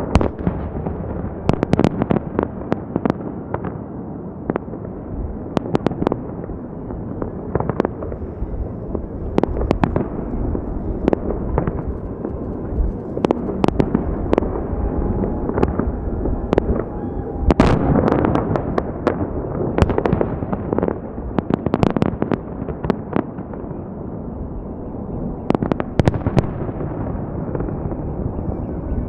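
Fireworks display: a continuous rumble of shell bursts with many sharp cracks going off at irregular intervals throughout.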